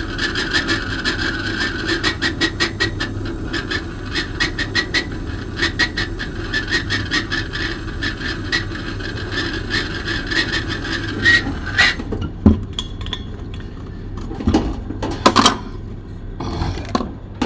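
Gas brazing torch burning steadily with a fast crackle while refrigerator copper pipes are brazed. The flame cuts off about twelve seconds in, followed by a few knocks of handling.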